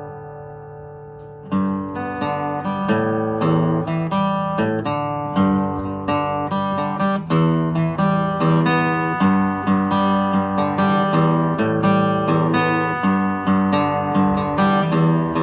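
Acoustic guitar playing an instrumental passage: a held chord fades for a second and a half, then plucked and strummed notes run on at a steady rhythm.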